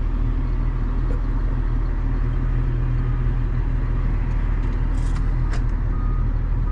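Big John Deere farm tractor's engine running steadily with a low drone. A few faint short beeps and a couple of clicks come through about halfway in.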